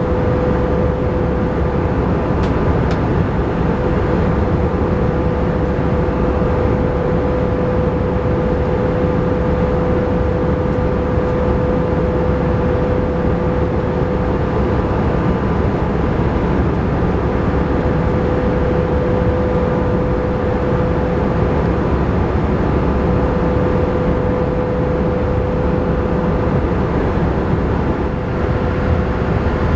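Steady in-flight cabin noise of an Airbus A318 airliner: an even rush of engine and airflow noise with a constant mid-pitched hum running through it.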